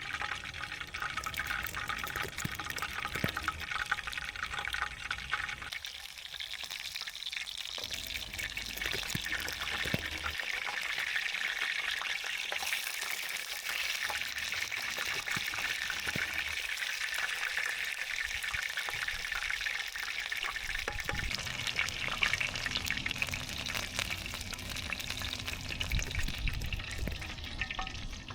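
Food frying in hot oil in a pan over a wood fire: a steady, dense sizzle full of tiny pops and crackles.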